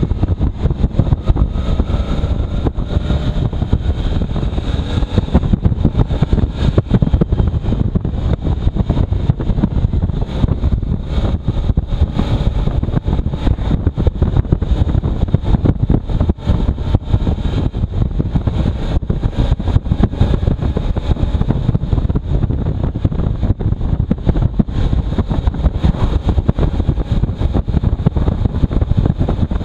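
Heavy wind buffeting on the microphone of a moving motorcycle, a continuous gusty rumble with the engine running faintly underneath.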